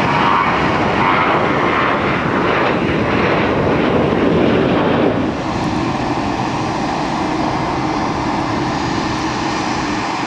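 Aircraft engines running loudly with a steady rush, easing off a little about five seconds in.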